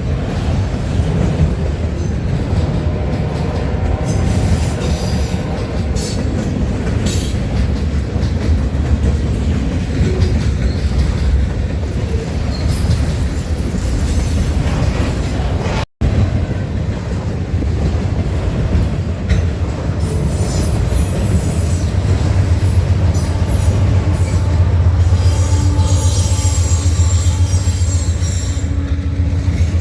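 A train's cars rolling past with a steady rumble and high-pitched wheel squeal. The sound cuts out for an instant about halfway through.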